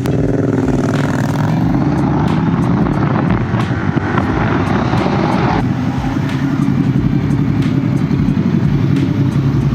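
Motorcycle engine running steadily while riding, with wind rushing over the microphone that eases off about halfway through.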